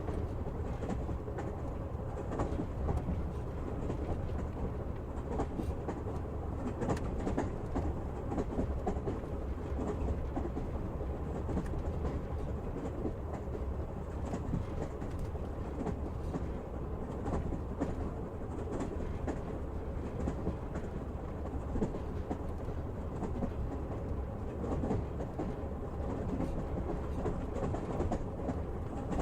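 Passenger train running on the rails, heard from aboard a carriage: a steady low rumble with frequent clicks and clatter of the wheels over the track.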